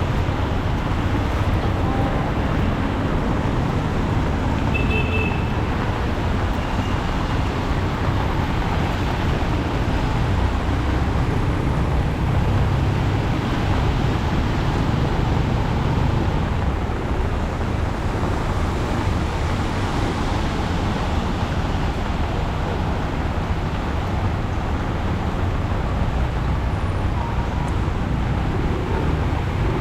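Steady noise of heavy rain mixed with road traffic, with a deep, even rumble and no single event standing out.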